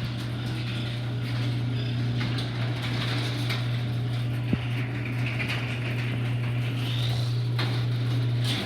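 LiftMaster 8165 chain-drive garage door opener closing the door: a steady motor hum with chain and door rumble, one click about halfway through, stopping abruptly near the end as the door reaches the floor.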